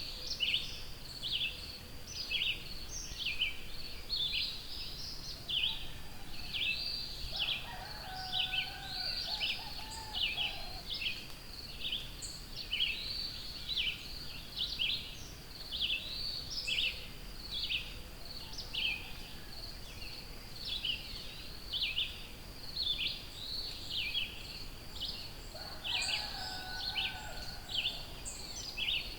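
Dense, continuous birdsong chorus, many small birds chirping rapidly over each other. A lower-pitched call from another bird comes in twice, about a quarter of the way in and near the end.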